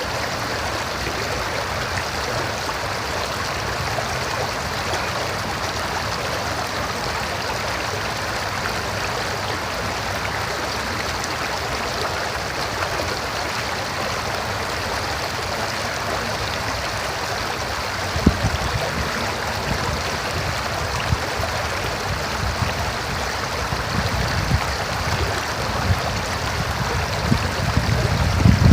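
A river flowing with a steady, even rush of water. From about two-thirds of the way through, occasional low thumps break in and become more frequent near the end.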